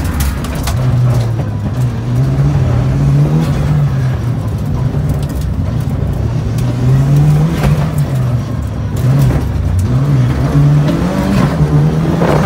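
Mitsubishi Lancer Evolution III rally car's turbocharged 2.0-litre four-cylinder engine heard from inside the cabin, revving up and dropping back in pitch several times as the car is driven hard.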